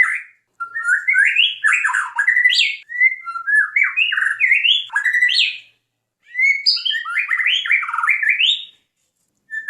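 White-rumped shama (murai batu) singing loud, varied song phrases. There are three quick runs of rising and falling notes, separated by short pauses.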